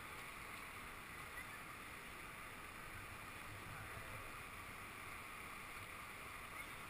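Faint, steady rush of river water.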